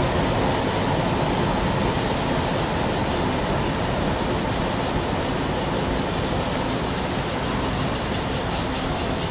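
A train running past: a steady rumble with a fast, even clatter through it, easing off slightly toward the end.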